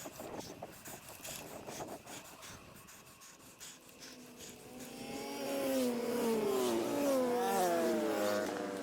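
A motor vehicle passes close by, its engine and tyre pitch sliding down as it goes, loudest about six to eight seconds in, over rushing wind noise.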